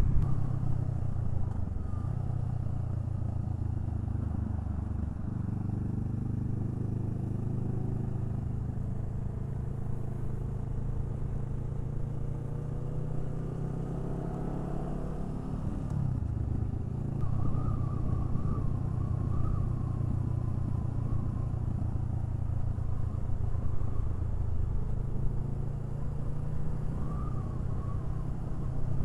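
Honda Rebel 500's parallel-twin engine running under way as the bike rides; its pitch climbs for several seconds and then drops sharply about halfway through, at a gear shift.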